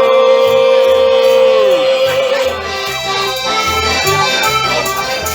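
Live band music: a long held note that slides down about two seconds in, followed by a bouncing bass beat.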